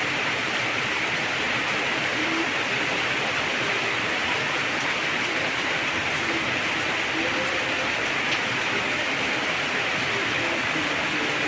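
Heavy rain falling steadily, an even hiss with no let-up. A faint low hum comes and goes underneath.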